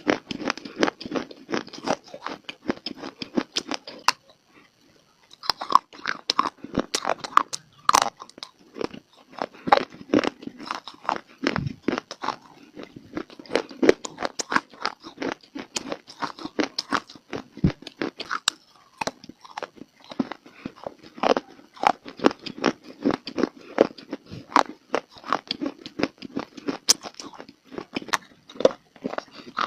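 Close-miked biting and chewing of crunchy dry clay (mitti): dense, rapid crunches, with a short pause about four seconds in.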